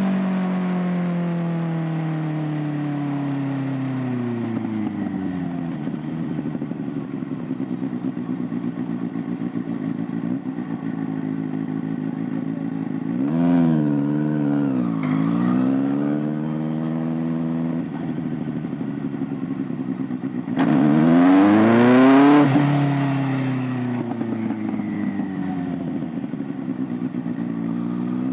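Kawasaki ZX-6R 636's inline-four engine and exhaust. The revs wind down over the first few seconds, then the engine runs at low revs with a choppy, uneven note. Around the middle the revs rise and fall briefly; at about two-thirds of the way it is opened up hard for about two seconds before dropping back, and it starts climbing again at the very end.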